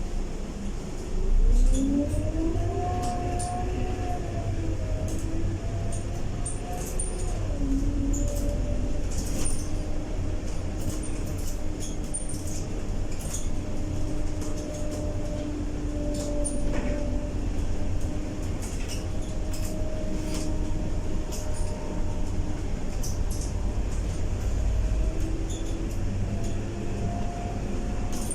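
Scania K230UB bus heard from inside: a thump about a second and a half in, then the drivetrain whine rises as the bus picks up speed. The whine steps down a little and holds steady while the bus cruises, over a low rumble, with the body and fittings rattling and clicking.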